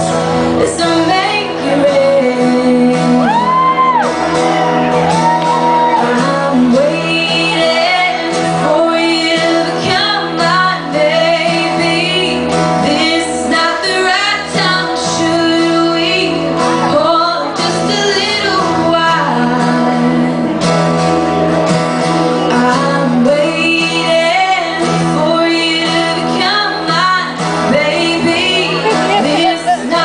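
Live pop band performance with a woman singing over it and some shouting.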